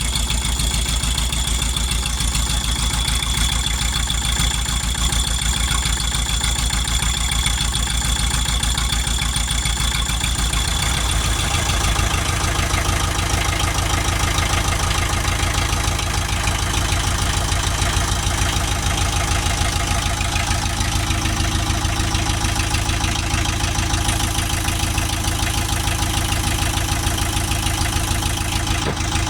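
Perkins Prima 80T four-cylinder diesel, its turbo removed, running steadily at idle with a diesel clatter. Its note changes about twelve seconds in.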